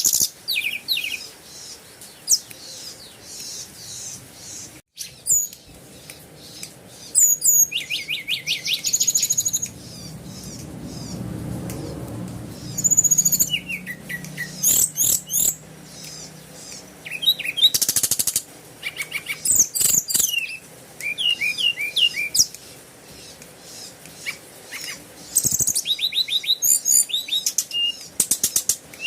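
Birds chirping and singing: many short high chirps, trills and quick repeated notes. A low rumble swells and fades midway.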